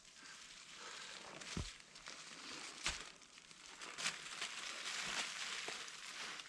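Rustling and crunching handling sounds, with a few sharp knocks in between.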